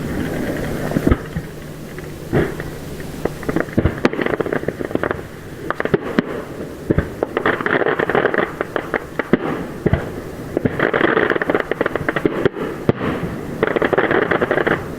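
Aerial fireworks bursting overhead: a rapid, irregular run of sharp bangs, thickening in the second half into three sustained stretches of dense crackle-like noise.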